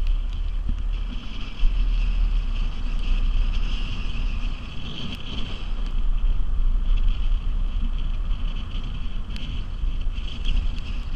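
Hurricane wind buffeting the microphone in a heavy low rumble, over a steady high hiss, with a few faint clicks.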